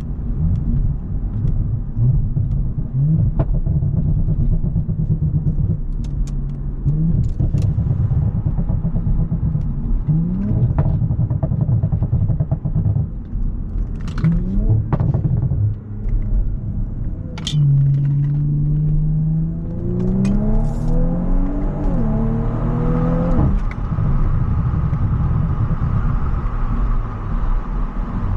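Audi S5's 3.0-litre V6 heard from inside the cabin while driving: a steady low engine note with a few short rises in pitch. From about 17 to 24 seconds in it revs up through the gears, the pitch climbing and dropping back at each shift, then it settles to a steady cruise.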